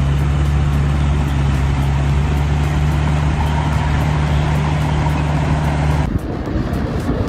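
Engine of a heavy two-stage snow-clearing machine running steadily under load, a deep drone under a broad rushing noise. About six seconds in it cuts suddenly to a different, rougher engine sound.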